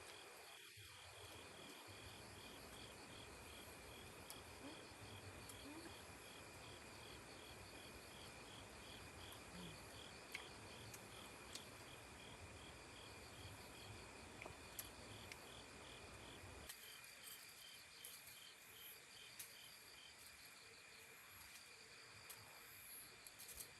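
Faint chorus of crickets chirping, an even pulsing of about three chirps a second over a steady high trill. A soft background hush under it drops away about two-thirds of the way through, and there are a few faint clicks.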